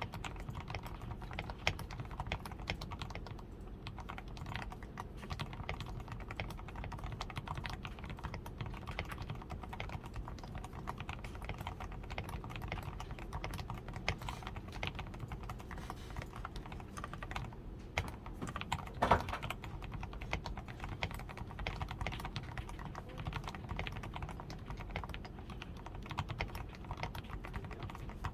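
Steady typing on a DAREU A87 Pro mechanical keyboard that has been fully lubed with Krytox 105, tape-modded on the PCB and fitted with XDA keycaps. It gives a dense, unbroken patter of keystrokes, with one louder stroke about two-thirds of the way through.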